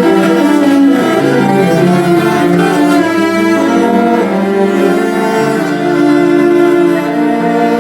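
Cello ensemble playing a piece, several cellos bowing sustained notes together that change every second or so.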